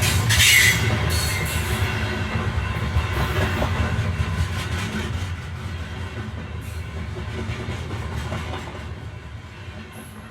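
Train running on the rails with a rumble and clatter, fading steadily as it draws away, with a brief hiss near the start.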